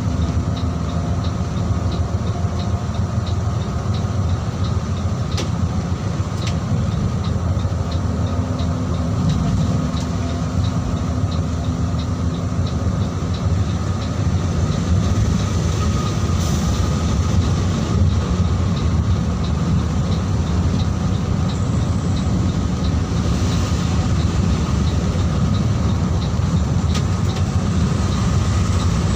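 Mercedes-Benz OH 1626 diesel bus running at speed: a steady low engine and road rumble, with a faint regular ticking over it.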